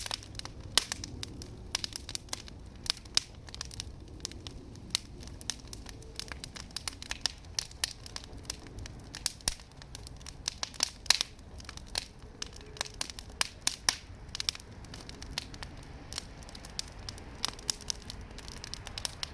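Wood campfire crackling, with frequent irregular sharp pops over a low steady rumble.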